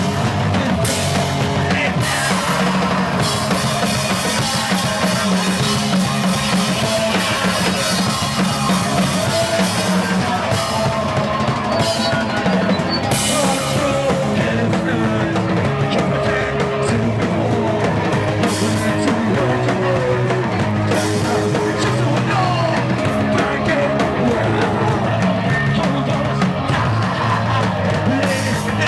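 Rock band playing live, the drum kit prominent over the other instruments.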